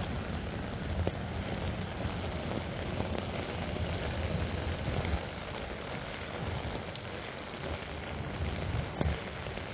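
Steady rain falling on an umbrella, with scattered drop ticks. A low rumble of passing traffic eases off about halfway through.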